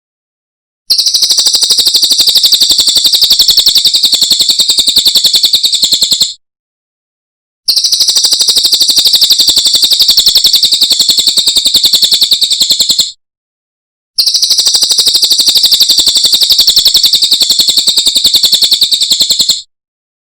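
Cililin songbird singing a fast, high-pitched chattering trill of evenly repeated notes, in three runs of about five seconds each with short silent gaps between them.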